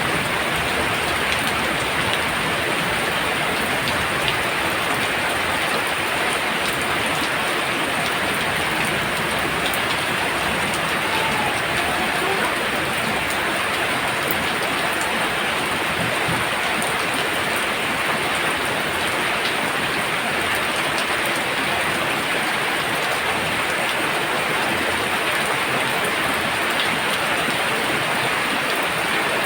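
Heavy rain pouring down steadily, a dense even hiss of drops on surfaces with a few separate drips standing out.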